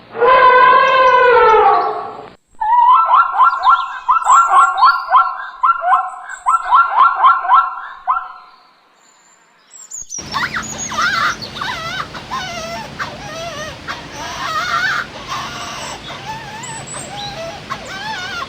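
A series of animal calls. First one long call that bends in pitch, then rapid runs of short repeated calls in quick bursts. After a short pause come many overlapping, wavering high calls over a low steady hum.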